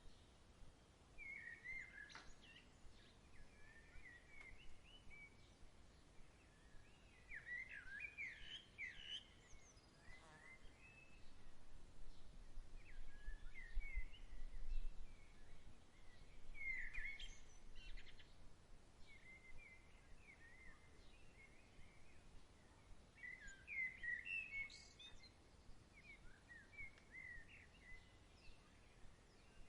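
Birds chirping faintly in short bursts of quick chirps every few seconds. A low rumble of breeze swells briefly around the middle.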